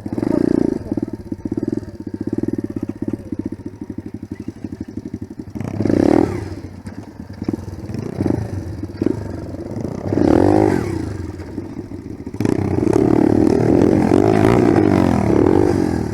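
Dirt bike engine under way, revving up in short bursts several times, then held at high revs for the last few seconds.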